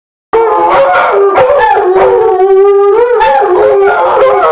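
Two German shepherds howling together, long wavering howls overlapping in pitch, set off by a fire truck's siren.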